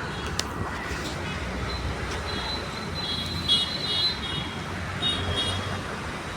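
Steady low traffic rumble, with short high chirps coming in small groups a few times.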